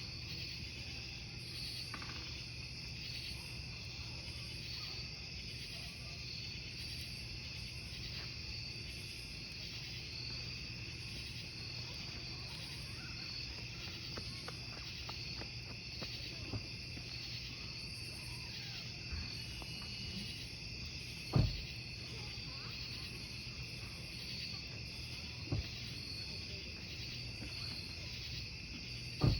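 Crickets chirping in a steady, even rhythm over a crackling wood campfire, with scattered sharp pops of burning logs, the loudest about two-thirds of the way through.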